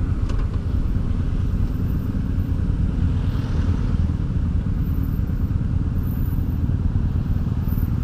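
Honda Deauville's V-twin engine running at a steady cruise, with wind rushing over the microphone, as the motorcycle is ridden along the road.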